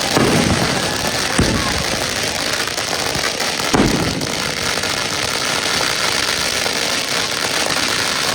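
Consumer fireworks going off: continuous dense crackling, with three booms in the first four seconds.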